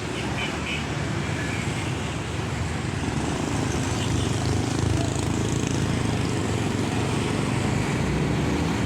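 Steady low rumbling outdoor noise, rising slightly in level about halfway through.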